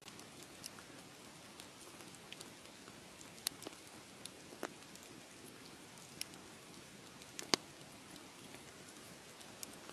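Wood fire crackling: a steady soft hiss with scattered sharp pops, the loudest about three-quarters of the way through.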